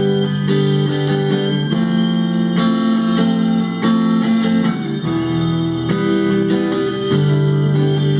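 A guitar playing a run of sustained, plucked notes and chords that change about every half second to a second.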